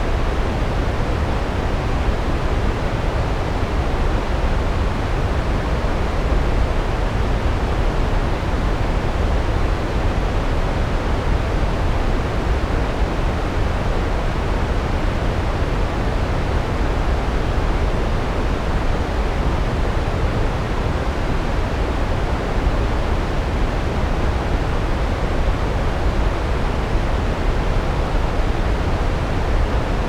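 Large waterfall, water cascading down rocks in a steady, unbroken roar, heaviest in the low end.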